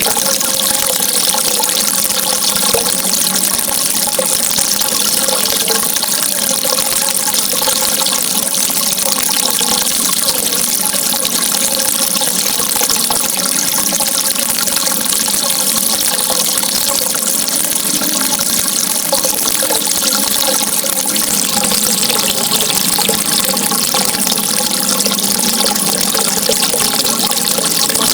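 Steady running water, an even rushing that holds the same level throughout.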